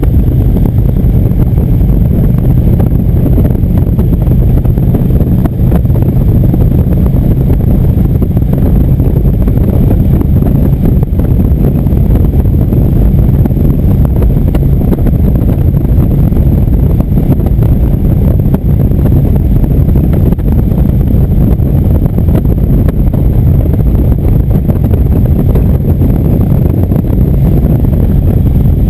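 Indian motorcycle running at a steady cruising pace on the road, its engine hum mixed with wind rushing over the microphone.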